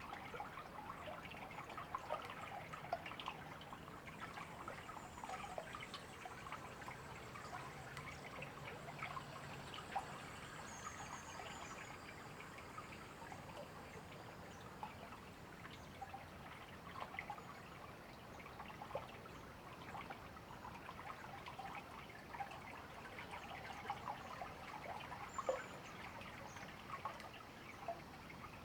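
River water trickling steadily, a dense patter of small splashes, with a few faint high bird chirps.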